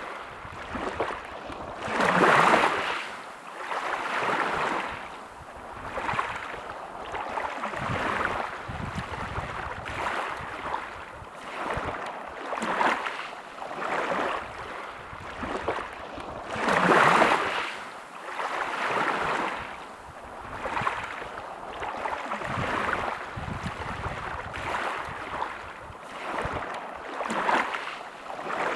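Sea waves breaking and washing on a beach: a rushing hiss that swells and fades every couple of seconds, with two bigger waves, one about two seconds in and one a little past the middle.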